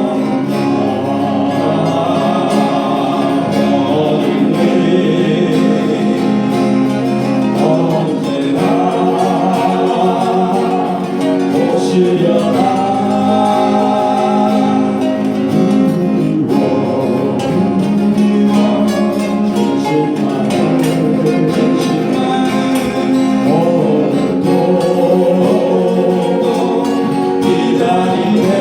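Acoustic guitars strummed steadily under several voices singing a slow melody together.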